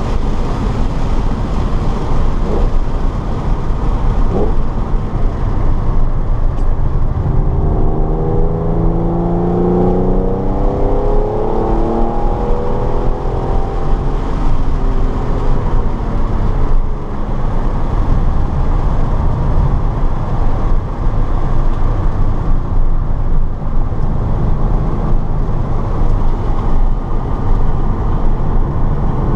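Car engine being driven hard around a race track, its pitch rising and falling with throttle and gear changes, clearest in the middle, over a steady loud rush of wind and tyre noise.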